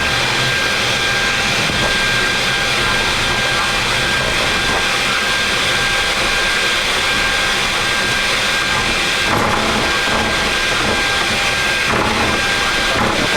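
Steady flight-deck noise of a Boeing 737 MAX taxiing with its CFM LEAP-1B engines at idle: an even rush of engine and airflow noise with a thin, constant high whine.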